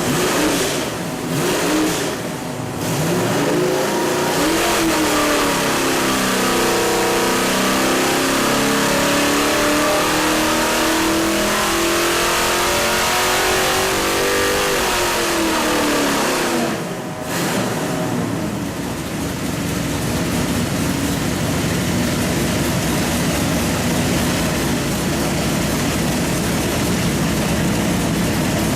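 Small-block Chevy 383 stroker V8 on an engine dyno. After a few brief throttle blips, it makes a pull under load with its pitch climbing steadily for about ten seconds. The throttle is chopped about 17 seconds in and the engine falls back to running steadily at low speed.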